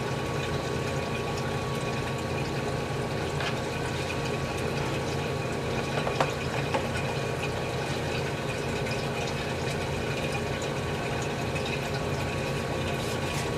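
GE CJ-1-C16 antique refrigerator's compressor running steadily with a low hum under a continuous watery hiss, pulling down a hot evaporator under heavy load.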